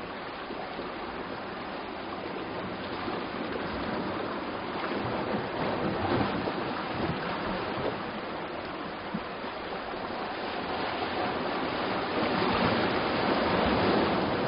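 Sea waves washing on the shore, a steady rush of surf that swells louder near the end.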